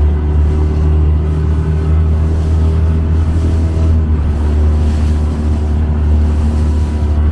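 Motorboat engine running steadily under way, a low steady drone with no change in pitch.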